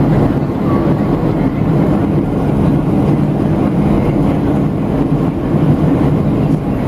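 Steady, loud drone inside the cabin of a Boeing 737-700 in flight: the CFM56 engines and the airflow over the fuselage, deepest and strongest in the low range, on approach to landing.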